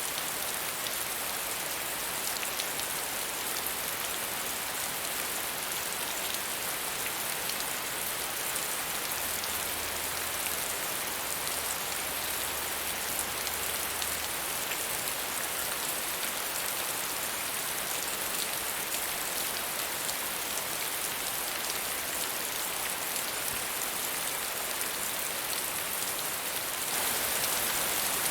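Steady rain falling at a medium rate, an even hiss of many drops with fine scattered pattering, getting a little louder near the end.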